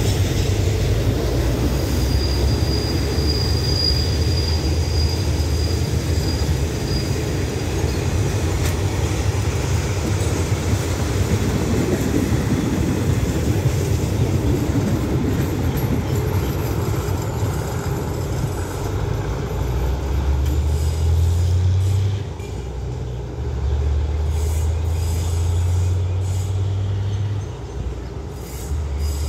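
Passenger coaches of a State Railway of Thailand ordinary train rolling past on the rails with a steady rumble of wheels on track. A thin high wheel squeal is heard about two seconds in for some five seconds. The rumble eases as the train draws away near the end.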